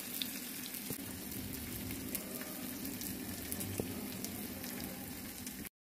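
Food frying in a hot pan: a steady sizzle with scattered small pops, which cuts off abruptly near the end.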